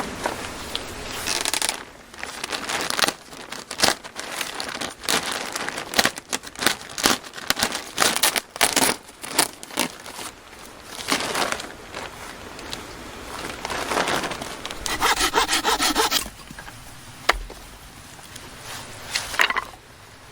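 Irregular rasping, scraping strokes, with a quick run of rapid, even strokes about three-quarters of the way through.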